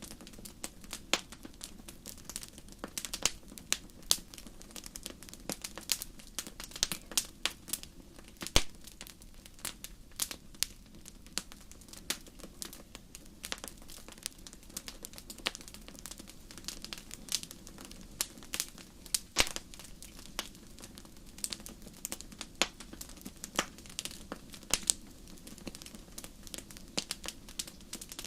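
Fire crackling in a fireplace: irregular sharp snaps and pops, several a second with a few louder ones, over a steady low hum.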